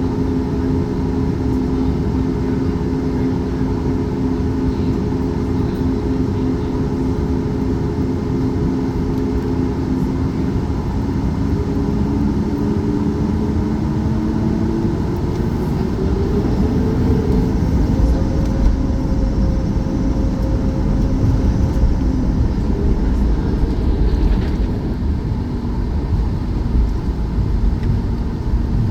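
Aircraft engines running with steady tones, then rising in pitch over several seconds about halfway through as they spool up for takeoff. A heavier low rumble follows, as of the takeoff roll.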